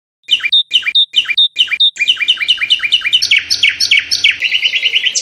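A nightingale singing one phrase of repeated whistled notes: four slow down-slurred notes, then quicker series of notes, ending in a fast trill that cuts off suddenly.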